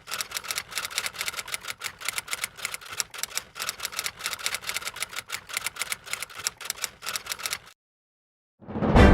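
Typewriter keys clacking in a rapid, uneven run that stops abruptly near the end. After a brief silence, music begins.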